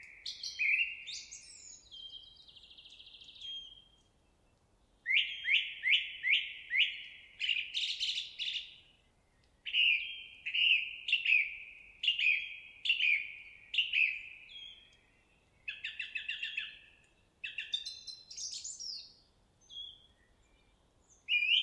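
A songbird singing phrase after phrase. Each phrase is a run of quick, down-slurred whistled notes, some ending in a higher flourish, with pauses of about a second between phrases.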